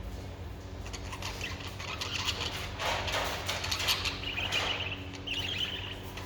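Birds chirping in short bursts, most clearly near the end, over scattered clicks and rustles and a steady low hum.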